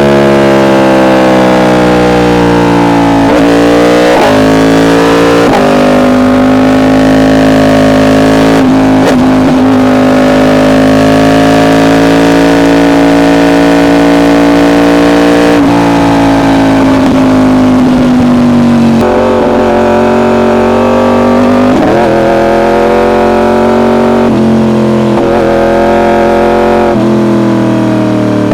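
Yamaha R1's inline-four engine through an SC Project exhaust, running hard under way. Its pitch climbs and dips sharply a few times early on with gear changes, holds steady for several seconds in the middle, then steps down and back up a few times near the end.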